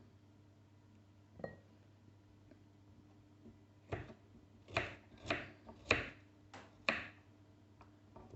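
Kitchen knocks and clinks from slicing and handling radishes on a chopping board: about six sharp, irregular taps, bunched between about four and seven seconds in, over a faint steady hum.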